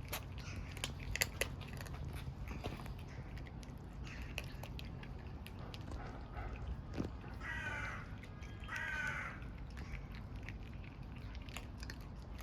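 Kitten crunching food, with irregular sharp clicks of chewing throughout. A little past the middle come two short animal calls, one right after the other.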